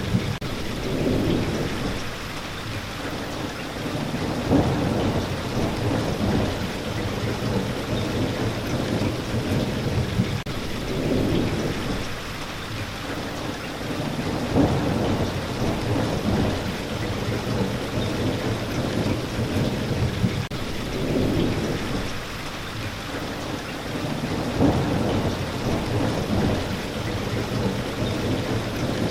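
Steady rain, with a deep rumble below it that swells and fades every few seconds.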